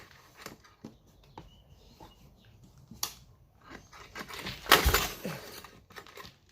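Light clicks and knocks of handling, then a single hard pull on the Yamaha Moto-4's rebuilt recoil starter about three-quarters of the way through: a brief rasping zip as the rope is yanked and the engine is turned over without starting.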